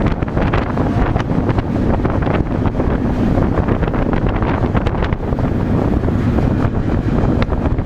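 Wind buffeting the microphone on a moving freight train, with the car's steady clatter and rattling knocks through it.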